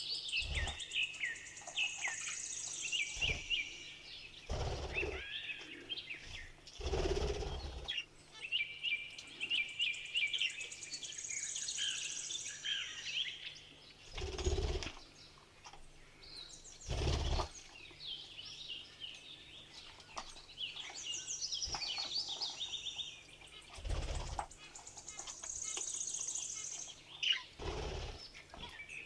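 Budgerigars chattering with fast warbling chirps, broken by several short, dull thumps.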